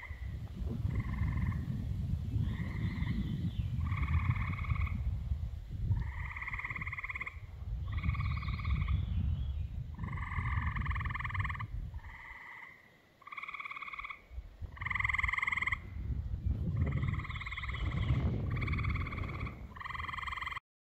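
Frogs calling in chorus: short pulsed trills, each about a second long, repeated and overlapping, with a low rumble underneath.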